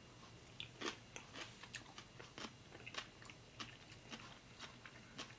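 A person chewing raw sliced cucumber: faint, crisp crunches, irregular, a few per second.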